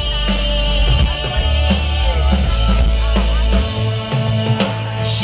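Rock band playing, with drums, bass and guitar under a singer's voice.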